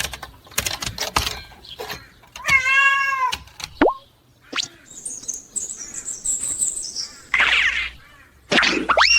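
A kitten meowing, one drawn-out meow about two and a half seconds in, among light clicks and knocks and a few short louder bursts.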